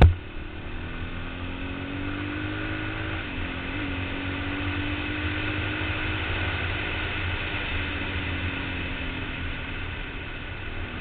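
Yamaha TT-R225 trail bike's single-cylinder four-stroke engine running under way, its pitch rising gently over the first few seconds and then holding fairly steady. A single loud knock comes at the very start.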